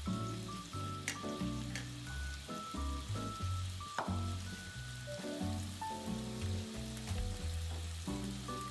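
Beef strips sizzling in oil in a frying pan, a steady crackling hiss, under background music with a melody and bass line.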